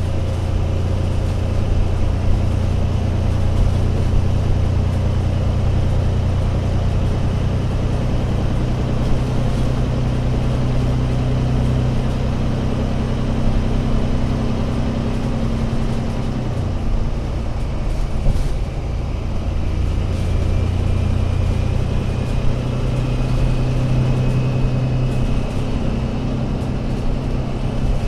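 Diesel engine of an Alexander Dennis Enviro500 MMC Euro 6 double-decker bus running under way, a steady low drone. The drone eases back about two-thirds of the way through and builds again, with a faint high whine rising slightly over the second half.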